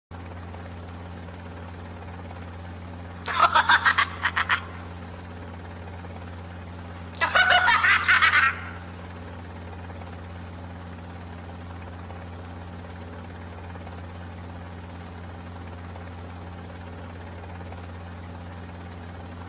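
Steady low hum of a cartoon flying craft's engine, with two short bursts of quick, pulsing laughter, about three seconds in and again about seven seconds in.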